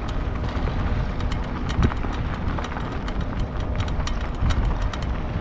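Bicycle with no suspension rolling over a bumpy path: a steady low rumble with irregular rattles and clicks as it jolts over every bump.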